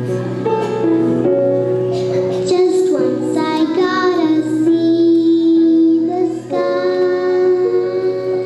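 Young children singing a song with musical accompaniment, holding long notes.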